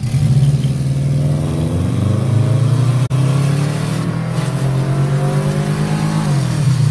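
Car engine accelerating under a long steady pull, its pitch climbing slowly. The sound cuts out for an instant about three seconds in, and near the end the pitch falls as the throttle comes off.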